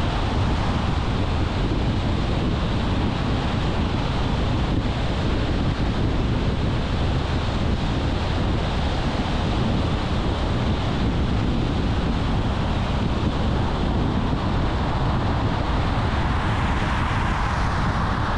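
Steady road and wind noise of a car driving along, a dense even rush of tyre roar and air. Near the end a louder hiss swells up over it.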